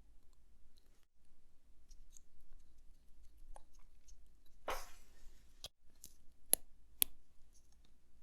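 Watchmaker's small hand tools clicking and tapping against tiny metal watch parts during movement assembly: faint scattered ticks, then a brief rustle about halfway through and three sharp clicks after it.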